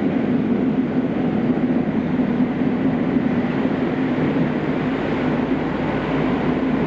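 Kobe City Subway 5000-series linear-motor train running steadily through the tunnel, heard from inside the passenger car: an even rumble of running noise with a steady low hum.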